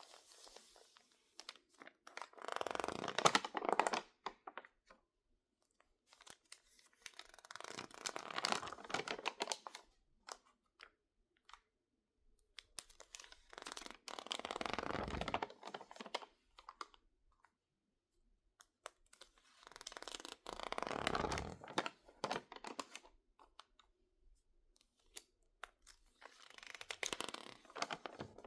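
Stiff, water-damaged magazine pages being handled and crinkled, in five crackling bursts about six seconds apart with short quiet gaps between; the pages have been misted with water and dried, which makes them crackle and pop.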